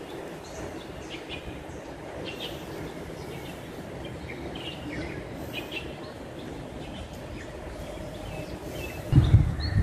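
Wild birds giving short, high chirps over a steady low background noise. A loud low rumble starts near the end.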